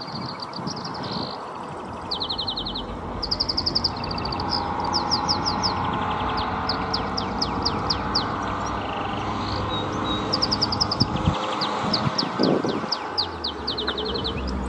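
Wild Atlantic canary singing its breeding-season song: a long, fast run of rapid trills and repeated high notes, over a steady low background rumble.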